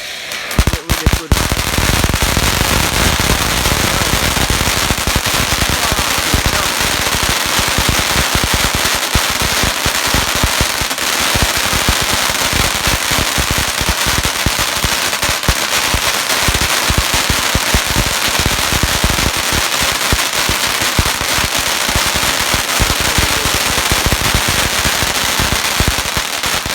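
Gemstone 13-inch Lava Blast firework fountain, 350 g of explosive, throwing out a loud, dense crackle of countless small cracks. It builds up about a second in, keeps going without a pause, and dies away near the end.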